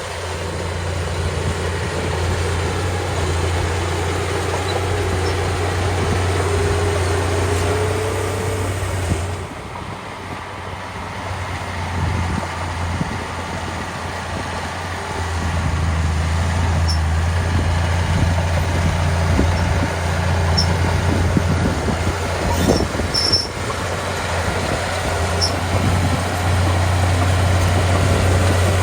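Small crawler bulldozer's diesel engine running under load with a steady low hum; the engine note falls away about a third of the way in and builds back up about halfway through as the throttle changes. A few short clicks come near the end.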